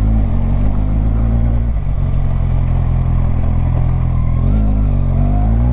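Kawasaki Ninja 1000's inline-four engine running steadily while riding. About four and a half seconds in, the engine note dips briefly, then rises as the bike accelerates near the end.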